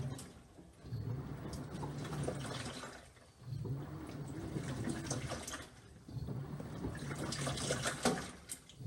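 LG 6.5 kg top-loading washing machine agitating in its wash phase: the motor hums and the water sloshes in strokes of about two seconds, with short pauses between them as the drum changes direction.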